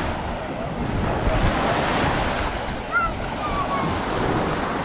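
Sea surf washing onto a sandy beach, a steady rush of waves with wind buffeting the microphone.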